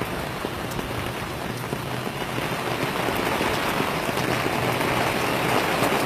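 Heavy rain pouring down: a steady, dense hiss of falling drops that grows a little louder about halfway through.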